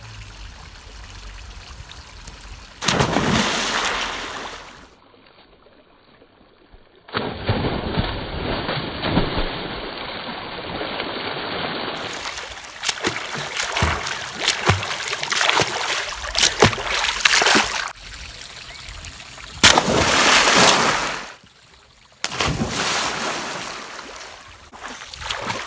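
Water splashing and rushing as people jump and swim in a stream pool, in short segments cut together. Two louder bouts of splashing come about three seconds in and again about twenty seconds in.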